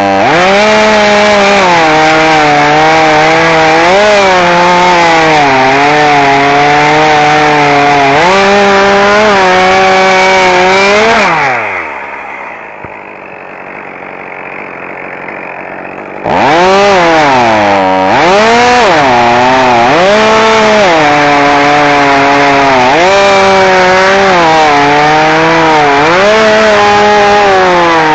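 Chainsaw running at high revs, its pitch repeatedly sagging and recovering as it works under load. About 11 seconds in the engine winds down to a low idle, then revs back up about five seconds later.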